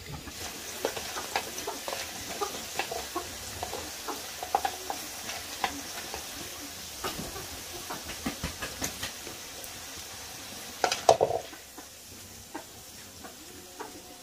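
Sweet potato strips frying in oil in a metal wok, with a steady sizzle and the light clicking of chopsticks against the wok as the strips are lifted out. A short, louder clatter comes about eleven seconds in.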